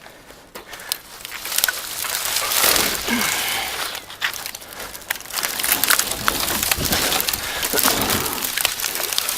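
Cut bush branches being handled and dragged, with the leaves rustling and twigs crackling and snapping in quick irregular clicks.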